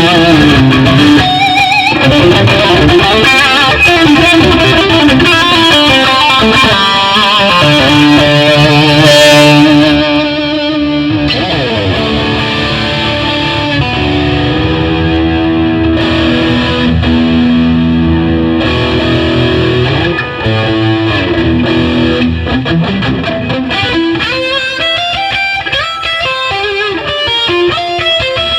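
1972 Gibson Les Paul Custom electric guitar played through a Line 6 POD HD500X and DT50 tube amp with some distortion. The first ten seconds are loud and bright; after that the tone turns duller and a little softer, with quicker single-note lines near the end.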